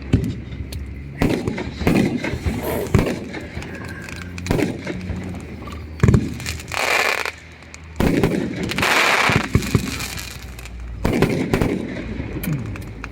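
Fireworks going off: a string of irregular sharp bangs, with two longer hissing, crackling bursts lasting about a second each, a little over six seconds in and again about nine seconds in.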